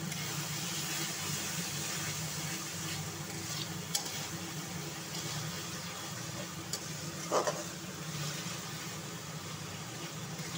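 Spice masala frying in an aluminium kadai with a steady sizzle and hiss, a metal spatula now and then clicking and scraping against the pan, over a steady low hum.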